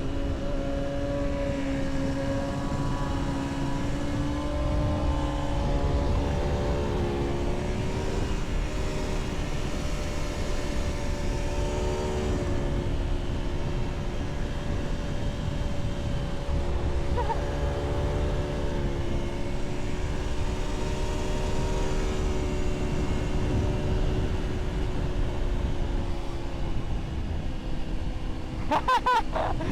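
Aprilia Tuono V4 motorcycle engine running at a steady cruise, its pitch holding fairly even with small rises and dips. Near the end, a short burst of higher, wavering tones cuts in.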